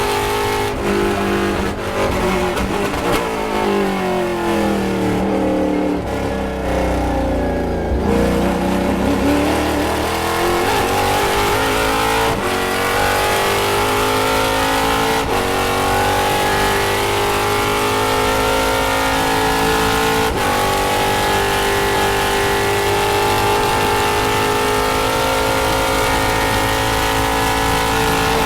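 Race car engine slowing under braking with downshifts for about eight seconds, then accelerating hard through several upshifts. It ends holding high revs at full throttle.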